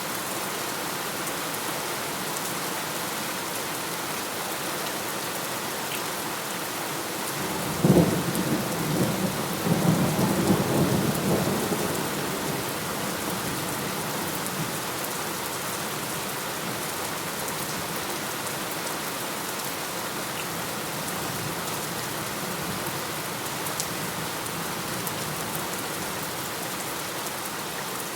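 Steady rain falling, with a sudden thunderclap about eight seconds in that rolls on as a rumble for a few seconds before fading back to rain alone.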